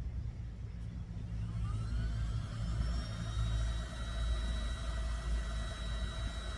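Small battery-operated air pump running to inflate an air mattress: its motor starts about a second and a half in, with a whine that rises in pitch and then holds steady over a low rumble.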